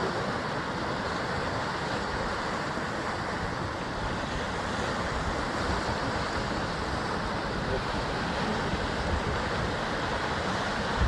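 Sea waves surging against a rocky basalt shoreline, a steady, dense wash of surf with no distinct single break standing out.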